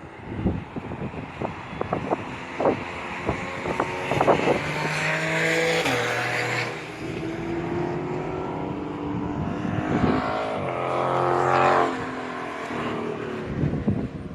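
Dodge Charger Scat Pack's 6.4-litre HEMI V8 with mufflers deleted, its straight exhaust note swelling loud twice, a few seconds in and again past the middle. Each time it holds a pitch and then steps down. Wind buffets the microphone throughout.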